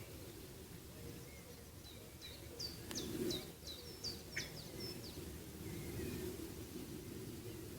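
A small bird singing a quick run of short, high chirps starting about two seconds in, with a few fainter chirps around it, over a steady low background rumble.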